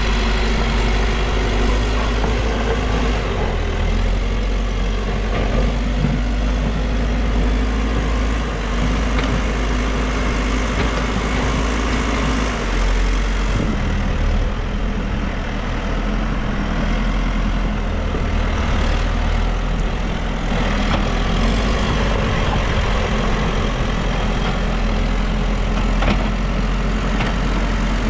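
Diesel engine of a New Holland backhoe loader running steadily while working. Its sound eases a little about halfway through and picks up again a few seconds later.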